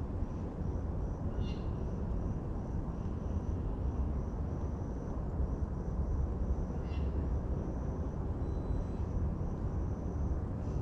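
Outdoor ambience: a steady low rumble with a faint high-pitched call pulsing a few times a second throughout, and two brief chirps about one and a half and seven seconds in.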